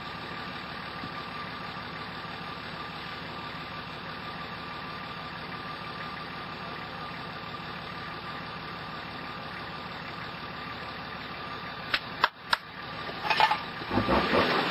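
4WD engine idling steadily, heard from inside the cab. About twelve seconds in there are a few sharp clicks, and near the end the engine begins to rev up.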